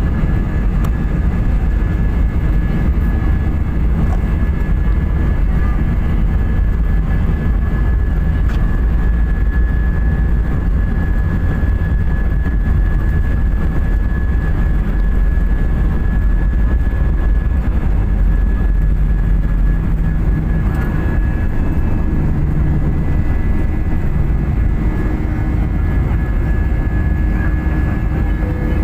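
Steady drone of a jet airliner heard from inside the cabin: a heavy low rumble of engines and airflow with a thin, steady whine above it.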